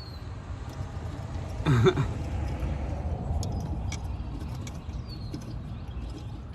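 Steady low rumble with scattered small metal clicks from EGR valve parts being handled, and a short voice-like sound about two seconds in.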